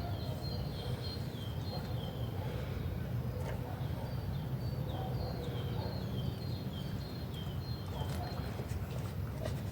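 A small bird singing a long series of short, downward-slurred high notes, a few a second, over a steady low rumble.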